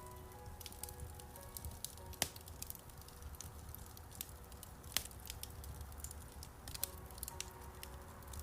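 Wood fire crackling in a fireplace, with scattered sharp pops (the loudest about two and five seconds in), over soft piano music.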